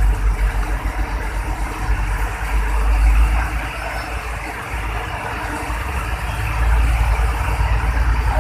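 Hino truck's diesel engine running with a deep, steady low rumble that swells twice, about three and seven seconds in.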